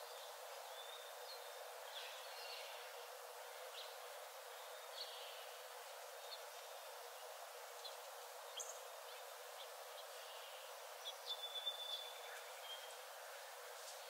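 Forest ambience: a steady soft hiss with scattered short, high bird chirps and calls, and a quick run of louder chirps about eleven seconds in.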